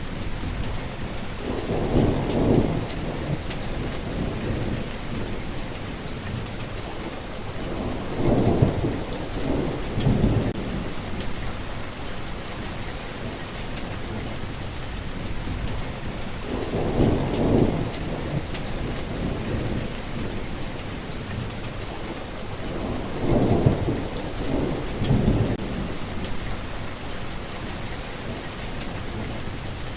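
Steady rain falling in a thunderstorm, with rolling thunder rumbling up and fading several times: about two seconds in, around eight to ten seconds, around seventeen, and around twenty-three to twenty-five.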